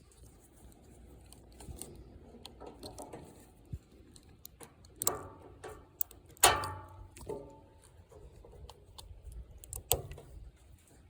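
Small metal parts and tools being handled: scattered clicks and knocks, with two louder clanks about five and six and a half seconds in, the second ringing briefly.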